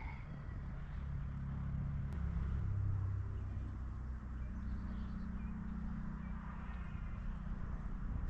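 An engine running steadily with a low hum, its pitch shifting slightly partway through.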